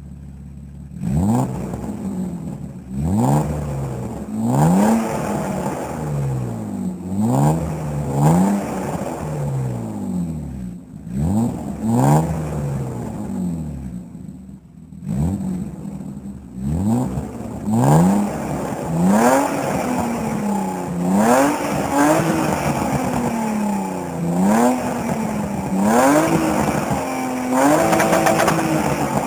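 BMW E36 325i 2.5-litre straight-six, through its stock exhaust, revved repeatedly in short blips, each one rising and dropping back. The blips are spaced out at first and come faster, one after another, in the second half.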